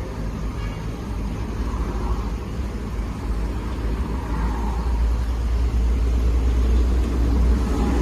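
Automatic pet washing machine running its water-disinfection cycle: a pump and water spraying inside the wash chamber give a steady rushing noise over a low hum. It grows slightly louder toward the end.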